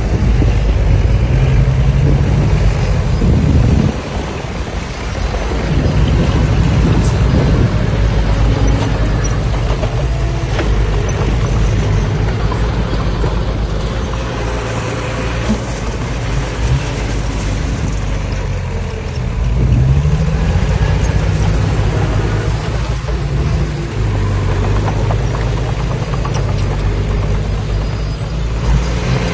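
Heavy diesel engine of earthmoving machinery running under load. Its note shifts with the work, easing about four seconds in and picking up again around twenty seconds in.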